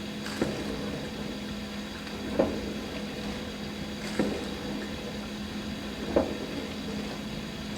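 Dishwasher running a wash cycle: a steady pump hum with water swishing, and a short knock about every two seconds, four times.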